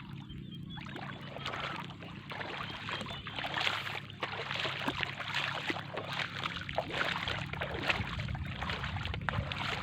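Shallow water sloshing and splashing with a dense crackle of small clicks, busier from about a second in, over a steady low hum.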